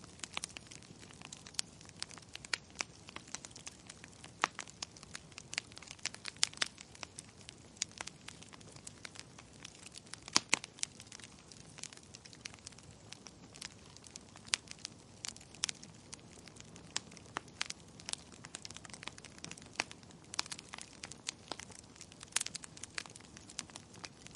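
Wood fire crackling in a fireplace: irregular sharp pops and snaps over a low steady hiss, with a louder pop about ten seconds in.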